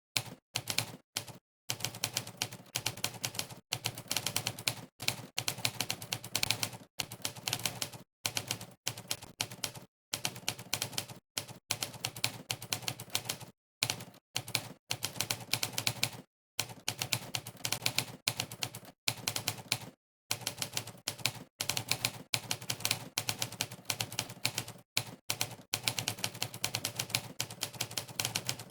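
Monkeytype's typewriter keypress sound effect: a sampled typewriter key strike for each key typed, coming in fast continuous runs broken every second or two by brief pauses of complete silence.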